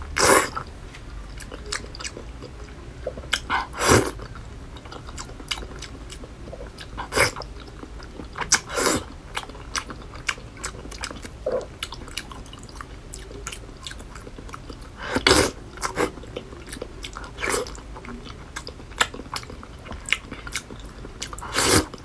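Close-up mouth sounds of a person biting and chewing soft, fatty braised pork belly: wet smacks and lip clicks at irregular intervals, a handful of them much louder than the rest.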